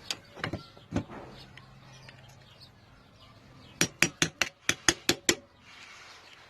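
Hammer tapping a screwdriver against a universal joint circlip, metal on metal, to drive the clip loose. A few scattered taps in the first second, then a quick run of about eight sharp taps past the middle.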